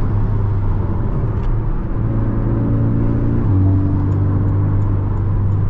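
Porsche 718 Cayman's 300-hp turbocharged flat-four engine running under way, heard from inside the cabin over road noise. The engine note shifts to a new pitch about two seconds in and again about three and a half seconds in.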